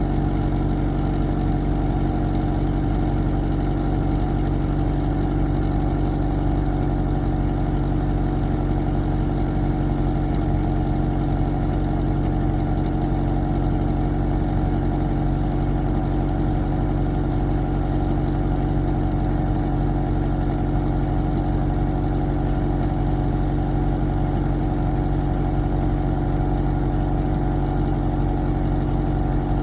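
1991 Pontiac Sunbird's GM four-cylinder engine idling steadily, still warming up after a cold start in freezing weather.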